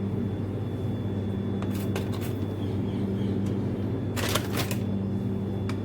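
A steady low hum, with a brief scraping noise about four seconds in.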